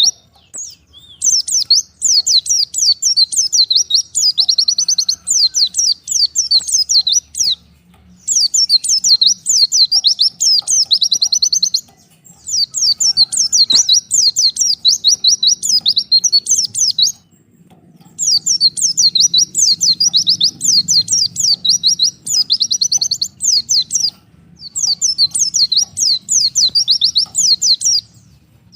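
White-eye (pleci) singing: long runs of fast, high, sweeping chatter, in five phrases of several seconds each with short pauses between them.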